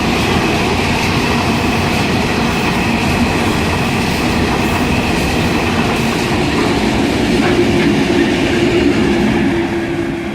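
Loaded freight train passing close by: heavy wagons rolling over the rails with a steady loud rumble and wheel clatter. Toward the end a steady engine hum comes in as the trailing diesel locomotives approach.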